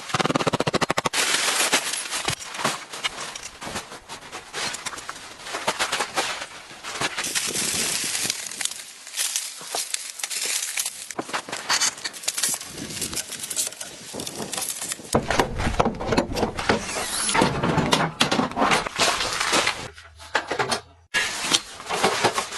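Blizzard snow driven by wind, pelting in dense rapid ticks and crackles, with a stronger, deeper gust in the second half.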